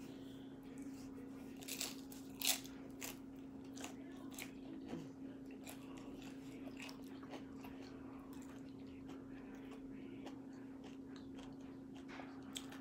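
Nachos of tortilla chips topped with chicken, cheese and sour cream crunching as they are bitten and chewed. Several sharp crunches come in the first few seconds, then quieter chewing.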